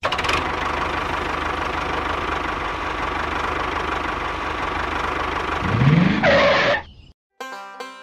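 Tractor engine running steadily, revving up with a rising pitch about six seconds in, then cutting off suddenly.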